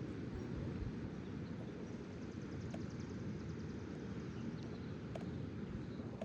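Wind buffeting the microphone: a steady low rumbling noise, with a few faint ticks above it.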